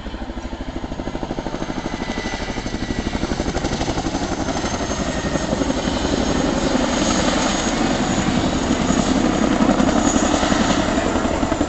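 Boeing Chinook tandem-rotor helicopter in flight, its two rotors beating in a fast, even rhythm with a thin high whine over it, growing steadily louder as it comes closer.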